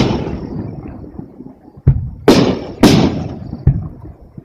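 Aerial fireworks shells bursting: a string of sharp bangs, the loudest pair about two seconds in, each trailing off in a long rumbling echo.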